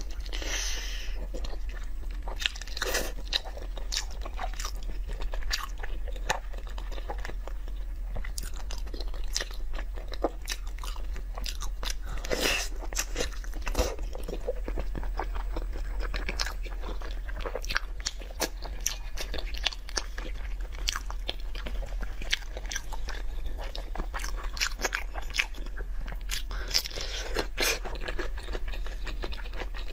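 Close-miked biting and chewing of braised beef hoof and tendon: a dense, uneven run of short mouth clicks and smacks, over a steady low hum.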